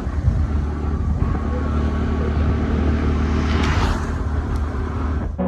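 Motorbike on the move: a steady low engine rumble mixed with wind buffeting the microphone, and a brief rise in hiss about four seconds in.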